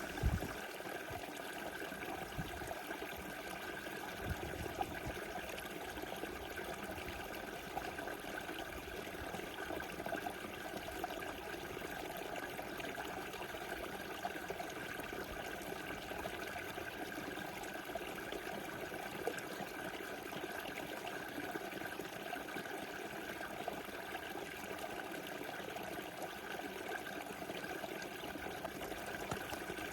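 A small river flowing and rushing steadily over stones, an even burble of water. A brief low thump comes right at the start.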